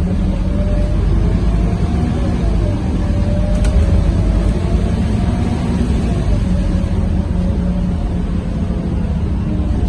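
Scania K230UB city bus's diesel engine running under way, its pitch rising and falling slightly, with one sharp click about three and a half seconds in.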